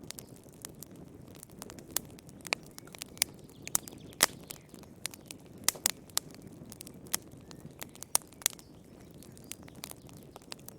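Wood fire burning in a fireplace: irregular sharp crackles and pops over a soft low rushing of the flames, with a louder pop about four seconds in.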